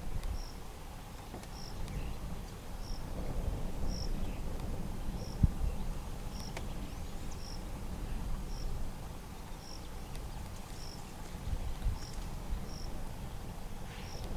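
Outdoor ambience: a short, high chirp from a small animal repeating about once a second, over low rumbling noise, with a single dull thump about five and a half seconds in.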